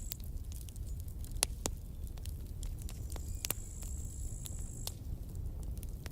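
Campfire crackling: burning wood gives irregular sharp pops and snaps over a steady low rumble of the fire, with the loudest pop about a second and a half in. A thin high-pitched hiss sounds from about three to five seconds in.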